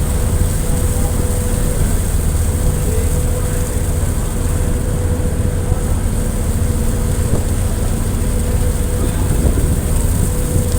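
Ship under way, its engine running with a steady low drone and a constant hum, amid the noise of wind and sea.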